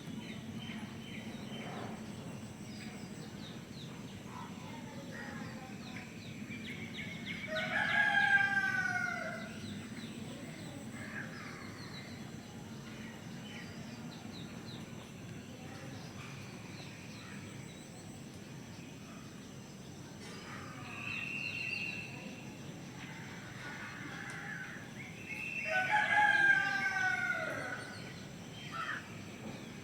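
A rooster crowing twice, each crow about two seconds long with a falling end, the second coming about eighteen seconds after the first. Fainter short bird calls come in between.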